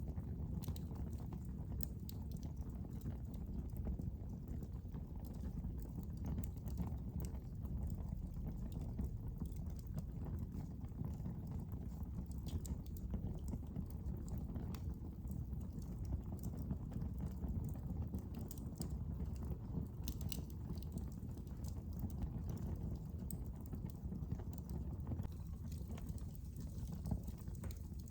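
Wood fire burning in a fireplace: a steady low rumble with scattered crackles and pops, a few sharper snaps about twenty seconds in.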